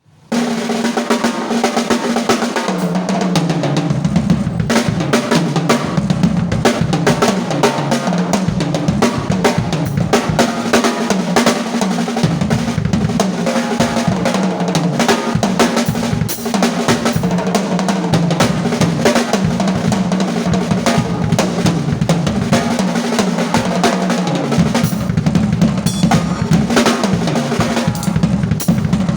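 Drum kit played continuously with kick and snare hits, over a low line that steps up and down in pitch, starting abruptly right at the beginning.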